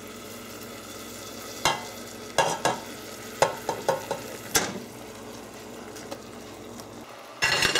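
Raw chicken chunks going into hot oil, balsamic dressing and garlic in a stainless steel pot, sizzling steadily. Several sharp knocks of a utensil on the pot come in the middle, and a louder scrape comes near the end.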